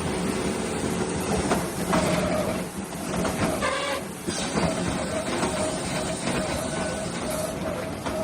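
A machine running steadily with a noisy, hissing sound and a faint steady tone, shifting a little about two and four seconds in.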